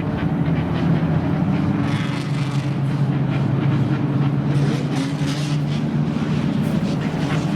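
Old car's engine idling with a low, steady note that hardly changes in pitch.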